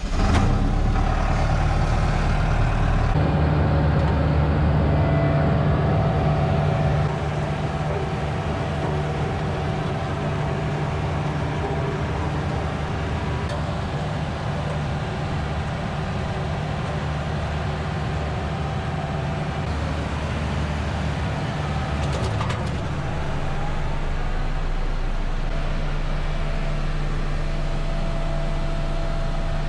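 Engine of a vibrating sheep's foot roller catching and then running steadily, settling a little quieter about seven seconds in.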